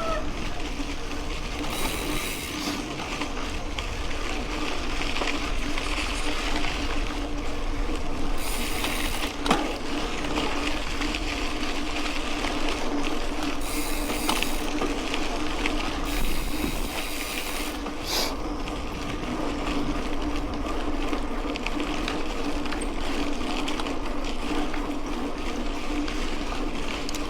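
Mountain bike rolling over a dirt road: a steady rumble of tyres and drivetrain with a constant low hum. There are a few short spells of higher hiss and one sharp knock about nine and a half seconds in.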